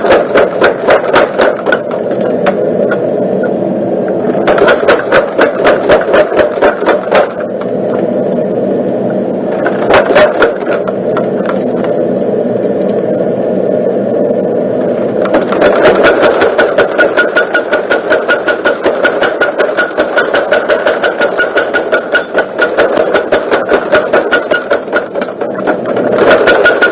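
Motor-driven forging hammer pounding in a fast, even rhythm of blows over a steady machine hum, hammering out a knife blade. The blows ease off and pick up a few times, and run densest and steadiest in the last ten seconds.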